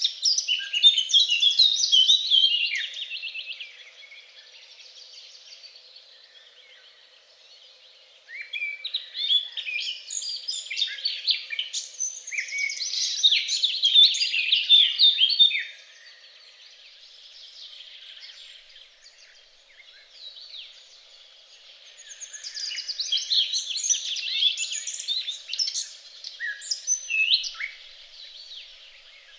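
Several songbirds singing rapid, high-pitched twittering and chirping phrases. The song comes in three bouts, with quieter gaps between them.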